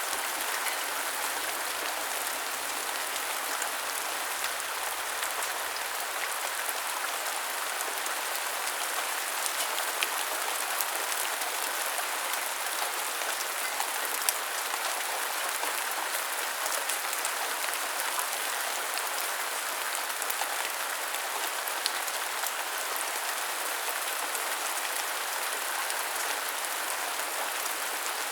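Steady rain falling and pattering on surfaces, an even hiss with scattered sharper drop ticks.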